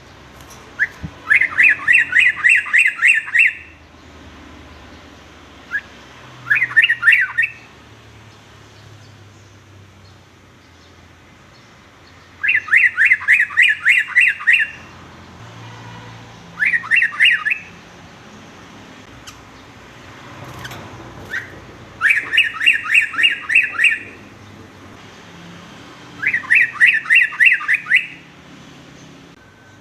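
Yellow-vented bulbul (trucukan) singing an unusual song: six bursts of fast repeated sweeping notes, each burst lasting one to two seconds, with pauses of a few seconds between them.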